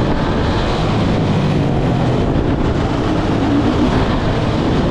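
Dirt bike engine running steadily under way, with a dense rushing noise over it.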